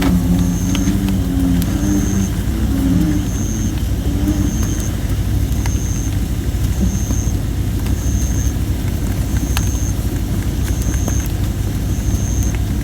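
Campfire of thin, under-dried red robin (Photinia) wood crackling, with a few sharp pops over a steady low rumble. Low bullfrog calls sound in the first few seconds, and a short high chirp repeats about every second and a half.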